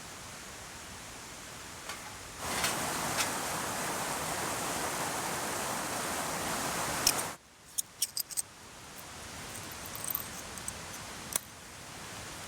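Steady rushing water of a mountain stream. A louder, even rushing noise takes over about two seconds in and cuts off abruptly around seven seconds, followed by a quieter stretch with a few sharp clicks and light clinks before the stream returns near the end.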